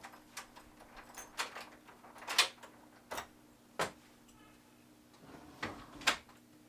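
A string of irregular sharp clicks and knocks, the loudest about two and a half seconds in and just before the end, over a faint steady hum.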